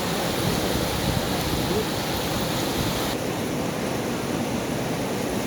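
Floodwater rushing: a loud, steady noise of churning water. About three seconds in, the sound changes abruptly and loses some of its hiss.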